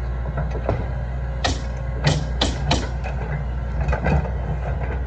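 Hydraulic excavator's diesel engine running steadily while it digs, with about five sharp metallic clanks from the bucket and linkage, bunched in the middle.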